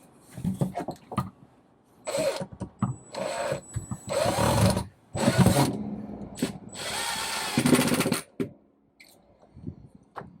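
A power drill running in a series of short bursts, about half a second to a second and a half each, the longest near the end, as it drives fasteners during a van plumbing install.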